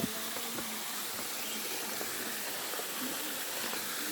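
Small waterfall rushing steadily, an even hiss of falling water, with a short knock right at the start.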